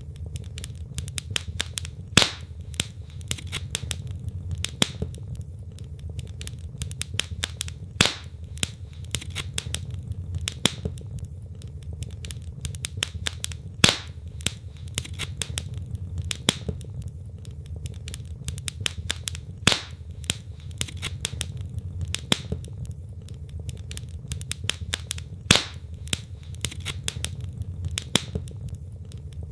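Wood fire burning in a fireplace, its logs crackling with a constant patter of small pops and a louder sharp snap every few seconds, over a low steady rumble.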